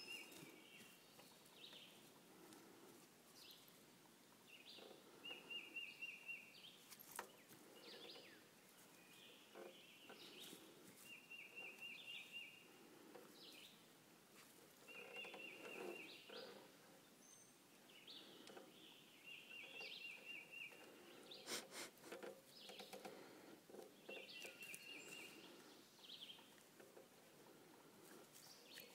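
Faint songbird song: one bird repeats a short, rapid trill about every four to five seconds, with other birds chirping now and then.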